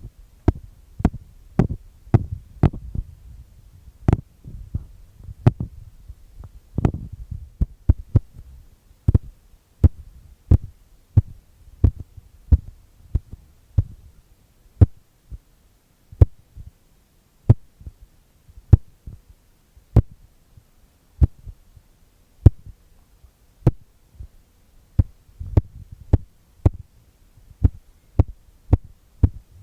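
Tapping on a wooden spoon: sharp, dry taps with a dull low body, about one or two a second in an uneven rhythm, spacing out a little in the middle.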